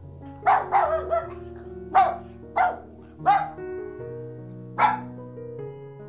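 A dog barking, about seven short loud barks at irregular intervals, some in quick pairs, over steady background music.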